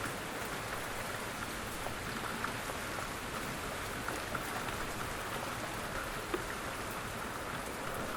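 Steady rain, with a continuous hiss and the small ticks of single drops striking a surface now and then.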